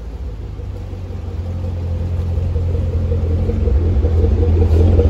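2013 Chevrolet Camaro's 6.2 L LS3 V8 idling steadily, a deep exhaust rumble growing louder as the microphone nears the rear exhaust outlet.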